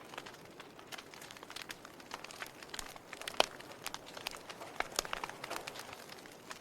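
Log fire crackling: irregular sharp pops and snaps over a soft hiss, with one louder pop about three and a half seconds in.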